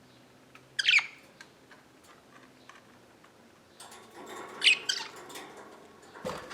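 Pet budgerigars in a cage: one sharp chirp about a second in, then soft chattering with another loud chirp from about four seconds. A low knock near the end.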